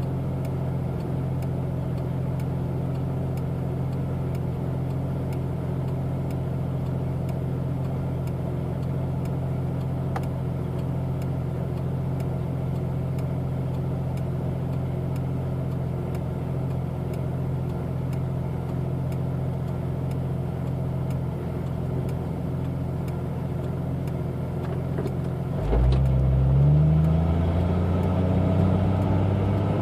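1992 Jeep Cherokee 4.0-litre straight-six running through a 2.5-inch exhaust with a Thrush Turbo muffler: a steady idle, then a rev about 26 seconds in, held up briefly and starting to ease back near the end.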